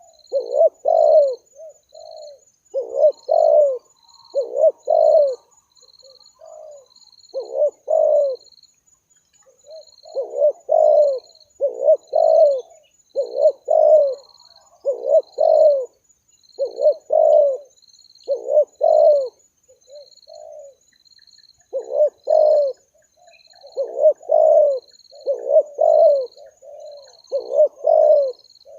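Spotted doves cooing over and over, low coo phrases in groups of two or three with short pauses between, with a faint, regular high chirping behind them.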